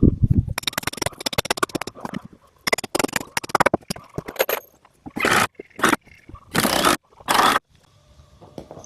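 Work on wooden concrete-form boards and stakes: a quick run of knocks and rattles over the first few seconds, then four short scrapes, the last ending just past seven seconds in.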